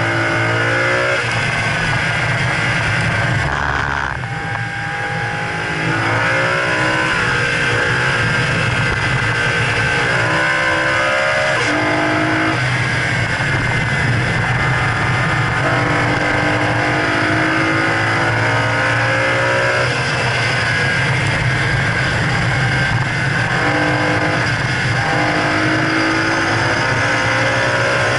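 2011 BMW E92 M3's 4.0-litre V8 driven hard on track, revving up again and again with quick gear changes between the climbs. The engine note drops briefly about four seconds in as the driver lifts, then pulls hard again.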